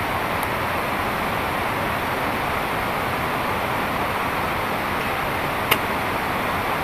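Heavy rain falling steadily, a dense even hiss, with one short sharp tap a little after the middle.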